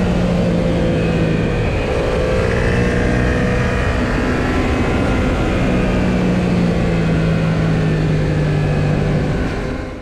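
Yamaha XSR700's 689 cc parallel-twin engine running at a steady cruising speed on the move, its note holding fairly even, then fading out near the end.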